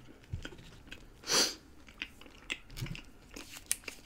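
Close-miked chewing of a mouthful of burger: wet smacks and sharp mouth clicks at irregular moments, with one louder short rush of noise about a second and a half in.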